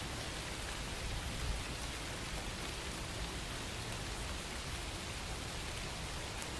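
Steady rain falling, an even hiss of drops on a surface, with a slight swell about a second and a half in.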